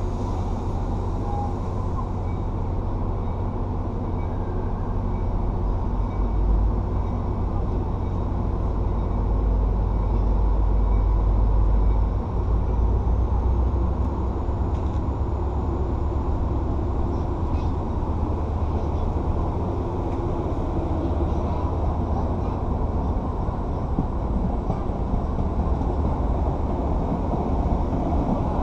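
MBTA Commuter Rail diesel-hauled passenger train departing, its coaches rolling past at low speed with a steady low rumble and hum, loudest about ten seconds in.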